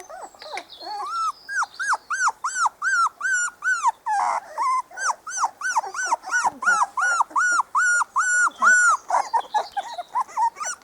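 Four-week-old Spanish Water Dog puppies whining: a steady run of short, high-pitched cries, each rising and falling, about three a second.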